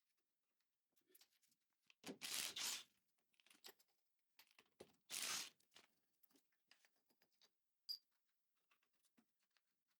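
Two short bursts of harsh, hissing tool noise, about three seconds apart, with faint clicks and knocks of metal parts and hand tools in between, from work unbolting a VW Beetle front beam from its chassis.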